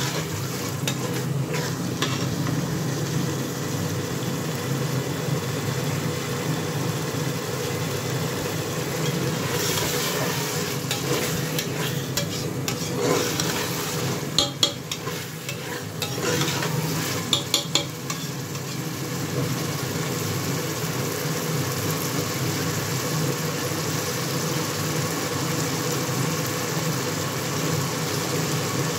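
Mash lentils (urad dal) and potato pieces sizzling in oil in an aluminium pressure cooker while a metal ladle stirs and scrapes through them. A few sharp clicks of the ladle against the pot come about halfway through.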